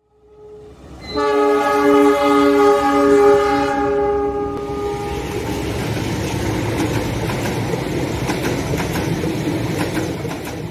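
A train horn sounds one long chord from about a second in, holding for about four seconds. Then comes the rumble of the passing passenger train, with the clickety-clack of its wheels over the rail joints.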